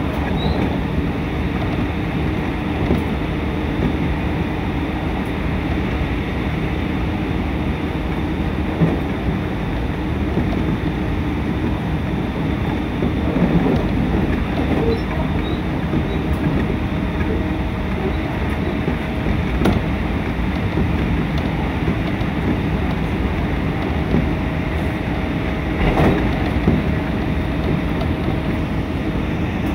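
Steady rumble and rattle of a JR commuter train running along the line, heard from inside the carriage. A few sharp clicks break through, and a faint steady whine comes in about halfway.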